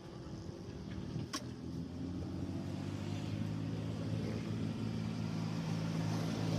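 A motor vehicle's engine running steadily at a low hum, growing gradually louder. A single sharp click about a second and a half in.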